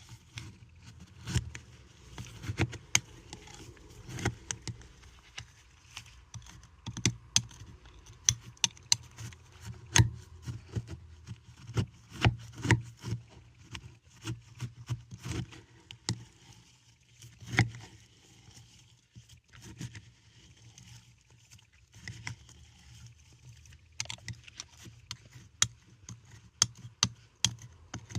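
Mixed mothball crystals (paradichlorobenzene, naphthalene and camphor) being handled, giving a string of irregular sharp clicks and light crunching and scraping, some clicks much louder than others, over a faint low hum.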